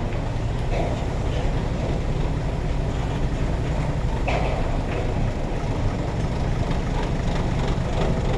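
Truck engine running with a steady low rumble, with a few faint clicks and rattles over it.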